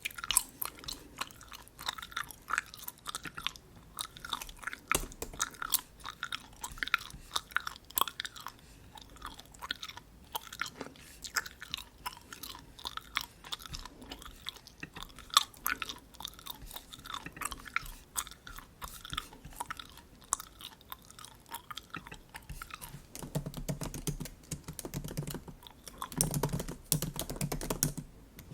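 Bubble gum chewed close to the microphone, a quick run of small moist clicks. From about 23 seconds in, the pattern changes and fuller, lower taps come in, like the MacBook keyboard typing heard just before.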